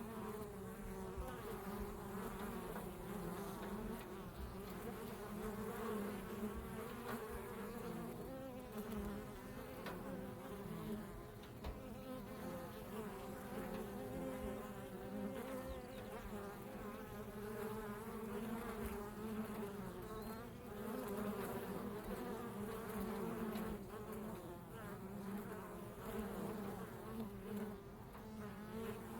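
Honeybees buzzing: a steady, gently wavering hum of many bees together, like a busy hive.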